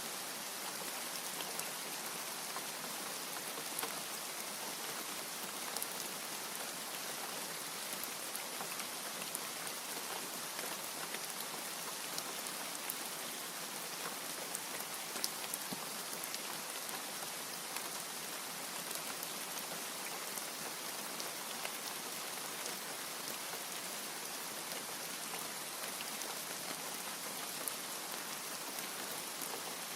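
Steady rain falling, with many small, sharp drop ticks scattered through it.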